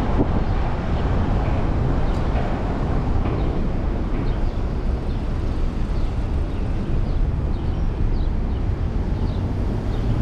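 Steady rumble of wind on the microphone and road noise while riding a fixed-gear bicycle, with traffic running underneath.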